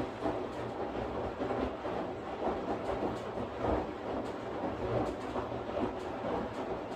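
Washing machine running: a steady low hum under a rhythmic swishing that swells and fades about every half second.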